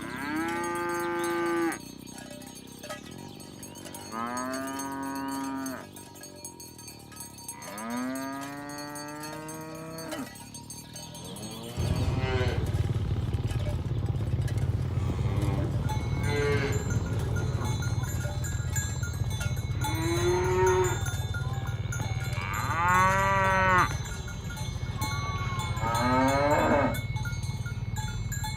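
Cows mooing: about eight long, drawn-out moos, each one to two seconds, some higher and some lower in pitch and each dropping off at the end. A steady low rumble comes in about halfway through, under the later moos.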